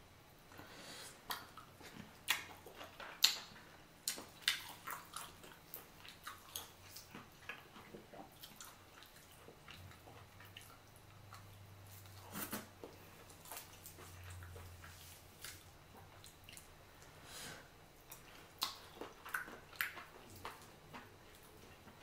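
Close-up eating sounds: a person chewing boiled chicken, with irregular sharp mouth clicks, and the meat being torn apart by hand.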